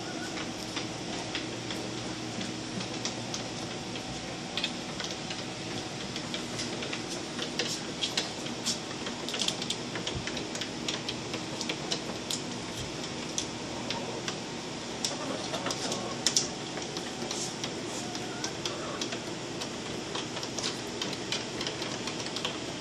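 Chickens moving about, with irregular sharp clicks and taps throughout over a steady low hum. The taps come thicker and louder in the second half.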